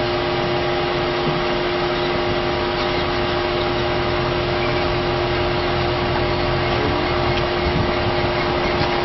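Steady mechanical hum of an idling vehicle: an even drone with a constant low tone, unchanging throughout.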